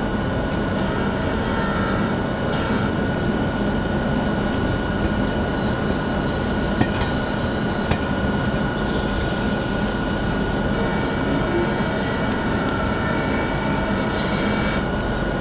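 Running noise of a moving Indian Railways passenger train heard from on board: a steady rumble and rush of wheels on the rails, with two sharp clacks about a second apart near the middle.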